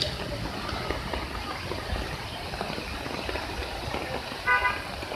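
Steady rushing noise of floodwater from the overflowing waterfall mixed with idling traffic, broken near the end by one short vehicle horn toot.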